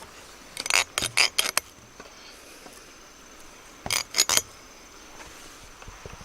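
Two quick clusters of sharp clicks and knocks, one about a second in and another around four seconds in, over a faint steady high drone.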